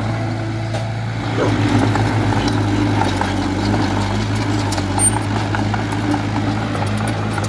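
Diesel engine of earthmoving machinery running steadily, with a deep even hum and a few faint clicks.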